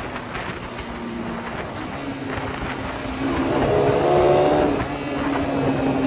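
Suzuki Satria FU 150 motorcycle's single-cylinder four-stroke engine running through an aftermarket CBU Thailand exhaust, with a steady engine note. About three and a half seconds in it swells louder for a second or so, then settles back.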